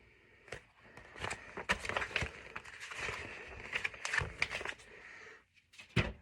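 Rustling and a run of sharp clicks and crackles from a paperback picture book being handled, its pages turning.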